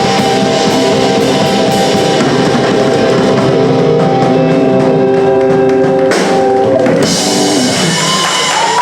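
Live punk rock band playing electric guitars over a steady drum beat, closing the song with held chords and a cymbal crash about seven seconds in. Wavering high tones follow as the music dies away.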